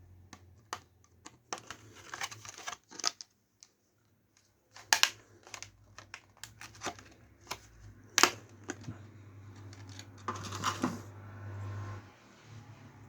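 Small plastic parts and packaging being handled and opened by hand: scattered clicks and taps with short rustles, two sharper clicks about five and eight seconds in, over a low steady hum.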